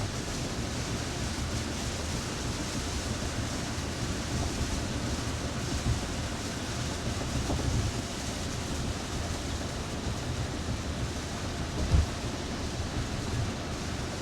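Steady rush of heavy rain and tyre spray on a wet road, heard inside a car's cabin while driving, with a low road rumble and a few brief low thumps.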